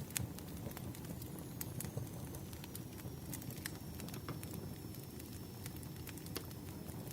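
Crackling wood fire: a low steady rush with scattered, irregular sharp pops of burning logs.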